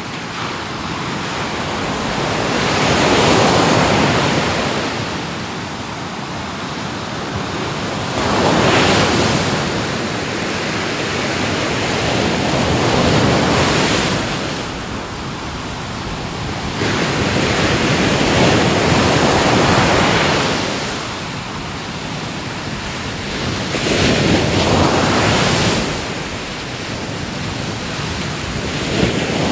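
Ocean surf: waves breaking and washing, each surge swelling and falling back, about every four to five seconds.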